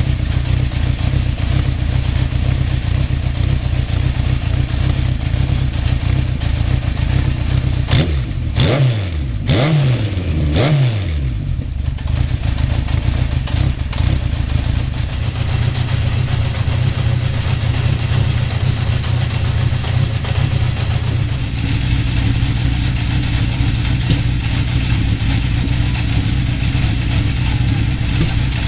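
Honda CB750 Four's air-cooled inline four-cylinder engine idling through its stock HM341 mufflers, blipped three times in quick succession about eight seconds in, then settling back to a steady idle.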